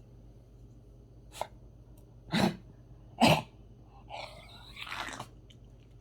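Pet dog coughing while lying down. It gives a short catch, then two loud harsh coughs about a second apart, then a longer strained hack. It sounds as if it is trying to bring up something stuck in its throat, which the owner suspects.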